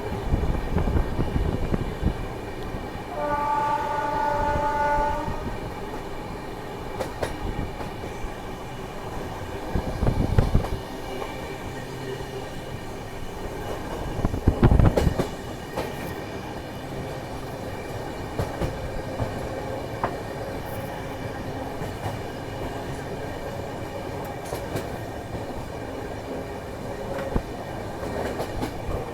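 Express passenger train running at speed, wheels clattering over the rail joints, with the WAP-7 electric locomotive's horn sounding once for about two seconds a few seconds in. Two loud low rushes stand out, near the middle.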